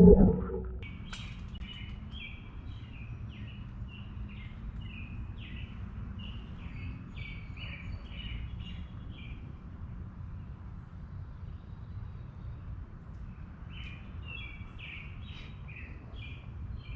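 A bird chirping in quick strings of short high notes, pausing for a few seconds about two-thirds of the way through, over a steady low background rumble.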